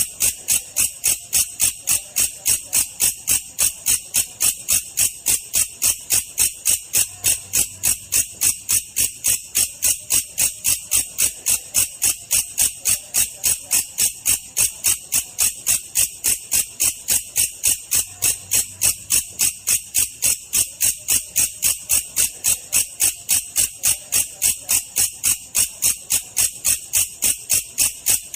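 Belalang kecek katydid calling: a steady, even train of sharp, high buzzy pulses, about three a second, without a break.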